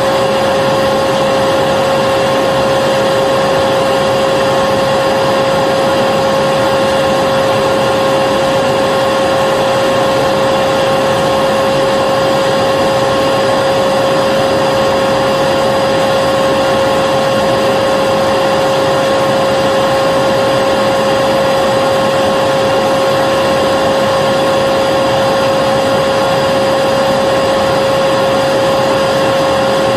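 Vacuum cleaner motor running steadily, a loud even rushing hiss with a strong constant hum near its middle pitch, unchanging throughout.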